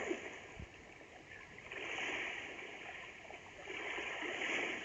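Shallow seawater washing in small waves at the shore, swelling and fading twice.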